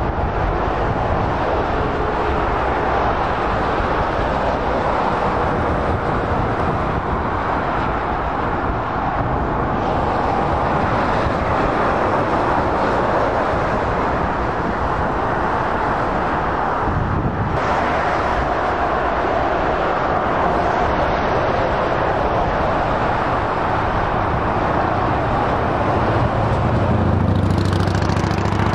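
High-speed electric trains passing at speed: a steady rush of wheels on rail and air from an LNER Azuma, with a brief dip about 17 seconds in. Near the end a deeper hum comes in as a Class 91 electric locomotive goes by.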